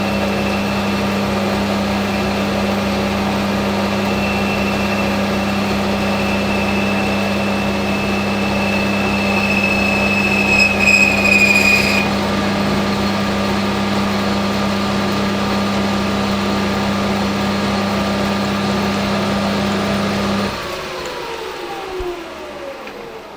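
Hafco AL960B metal lathe running under power while taking a cut, with a steady motor hum and a high ringing whine from the tool that swells about ten seconds in and stops at about twelve: chatter that the machinist puts down to the workpiece flexing. Near the end the motor is switched off and the spindle winds down with a falling pitch.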